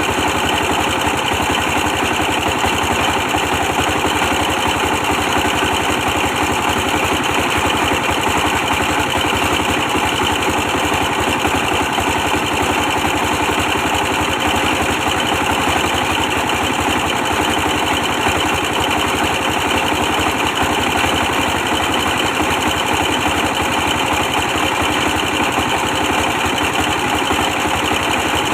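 Old 24-horsepower diesel engine running steadily, powering a brick press machine.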